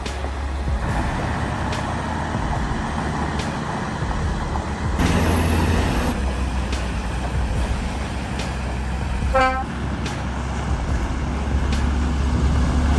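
Heavy truck engine running with a steady low rumble, and a truck horn sounding twice: a blast of about a second roughly five seconds in, and a longer one near the end.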